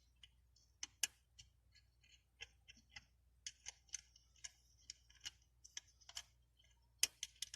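Faint, irregular small clicks and taps, one to a few a second, from hands working a small bolt through a bracket.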